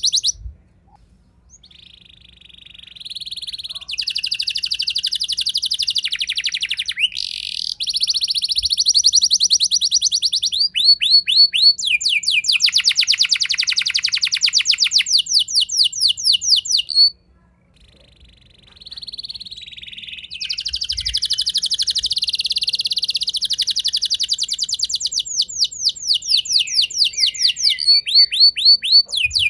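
Domestic canary singing a long song of fast rolling trills and rapidly repeated high notes. It breaks off briefly near the start and again a little past halfway.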